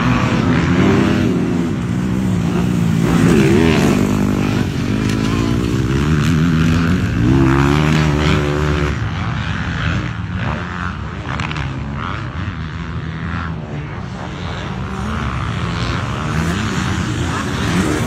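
Motocross dirt bike engines revving, their pitch rising and falling again and again as the throttle opens and closes, with the strongest surges about a third of the way in and near the middle.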